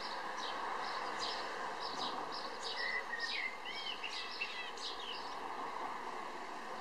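Small birds chirping in short, quick calls throughout, with a few sliding whistled notes about halfway through, over a steady background hiss.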